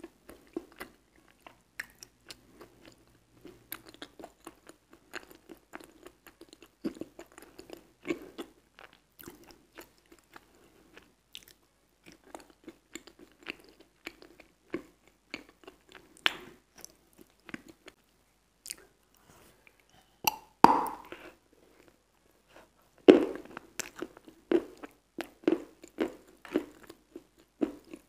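Close-miked biting and chewing of wet Aktobe edible chalk, each chew a wet crunch. A loud bite comes about twenty seconds in, then a quicker run of louder crunching chews near the end.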